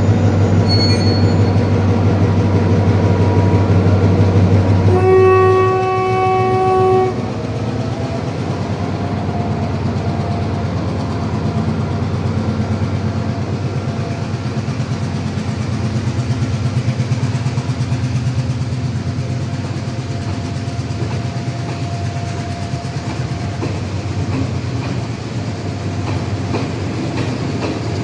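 A diesel train running, with its horn sounding once for about two seconds some five seconds in. After the horn the train carries on with a steady running rumble.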